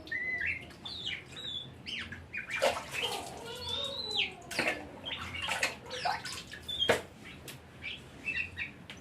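Oriental magpie-robin singing a varied, rapid song of whistled glides and chirps, broken by several sharp, harsh rasping notes.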